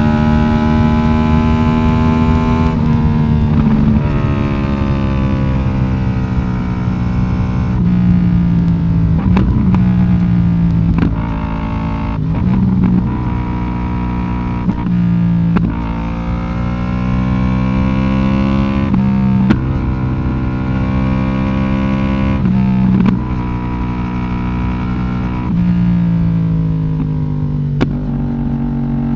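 Yamaha YZF-R1 inline-four with an Akrapovic exhaust, under way. The exhaust note rises and falls in pitch over and over, with sharp breaks every few seconds as on gear changes and throttle blips.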